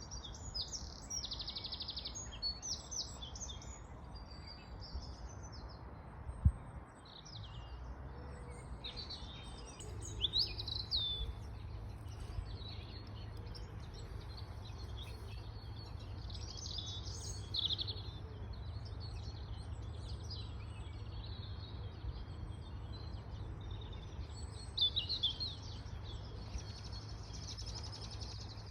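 Songbirds chirping and trilling in short phrases over a low steady rumble. A single dull thump comes about six seconds in.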